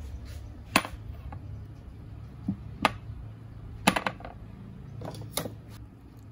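Kitchenware clinking and knocking: a handful of sharp separate clicks spread over a few seconds, the loudest about a second in and again about four seconds in, over a steady low hum.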